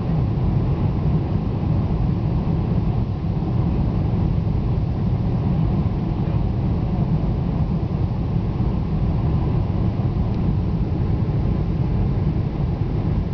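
Steady low rumble of a Boeing 747's engines and airflow, heard from inside the passenger cabin.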